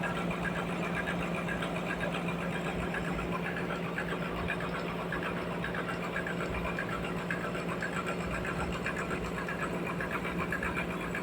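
Sawmill machinery running steadily, with a constant low hum under dense mechanical noise and no change in pitch or level.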